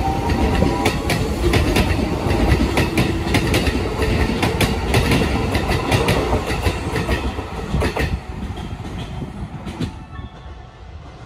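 Shin-Keisei electric commuter train running along the platform close by, its wheels clacking rapidly and unevenly over the rail joints. A rising motor whine ends about a second in, and the clacking fades from about eight seconds in and dies away near the end.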